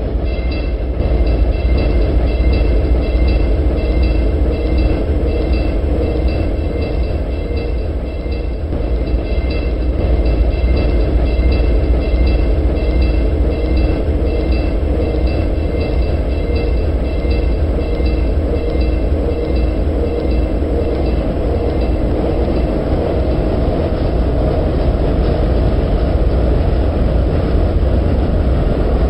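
Streetcar running through a tunnel: a steady low rumble with a whine of tones that pulse evenly and fade out about three-quarters of the way through.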